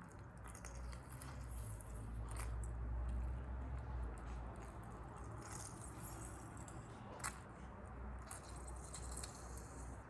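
Close-up handling sounds: a few stretches of soft rustling or brushing hiss and two sharp clicks, over a low steady rumble.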